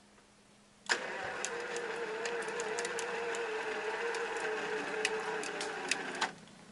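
Electric winch motor running under load for about five seconds, a steady whine with scattered clicks, starting and stopping abruptly. It is drawing on a truck battery said to be dead.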